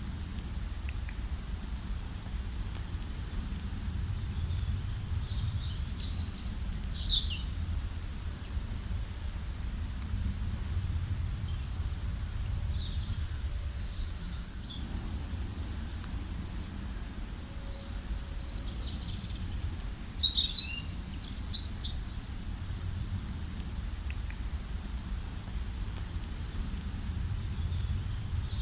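A songbird singing short, high, warbling phrases about every seven to eight seconds, over a steady low rumble.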